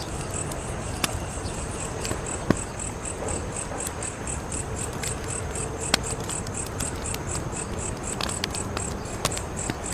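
Wood fire crackling over a low steady rustle, with a few sharp pops, the loudest about two and a half and six seconds in. Crickets chirp steadily throughout, about three to four high pulses a second.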